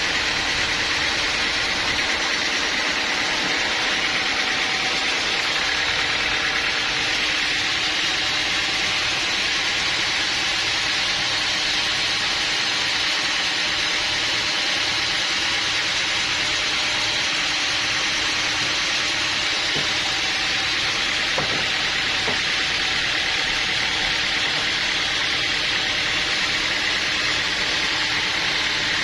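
Sawmill machinery running steadily: a constant motor hum under a loud, even hiss, with no change in pace.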